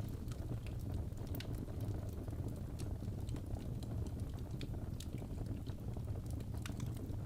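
Crackling fireplace: a steady low rumble of burning wood with many small irregular pops and crackles.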